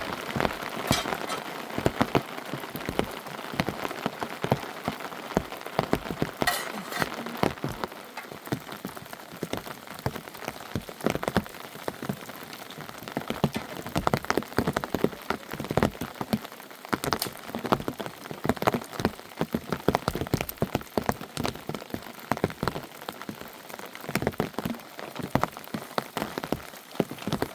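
Rain falling steadily, with many close drops tapping irregularly on a surface.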